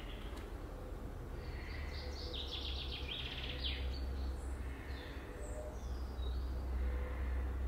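Small birds chirping and singing over a steady low background rumble, with one fast trill of rapidly repeated high notes lasting about a second and a half, starting a little over two seconds in.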